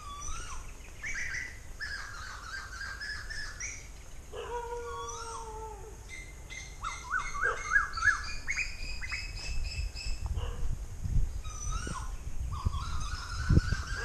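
Several birds calling: a mix of whistled calls and chirps, some gliding up or down, with a quick run of rising notes about halfway through. Low thumps in the last few seconds.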